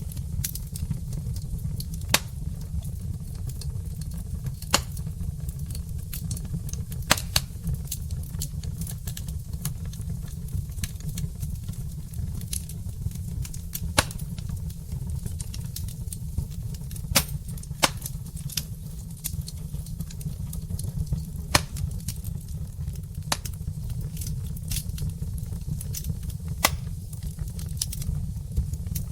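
Log fire burning in a fireplace: a steady low rumble under irregular crackling, with several sharper, louder pops scattered throughout.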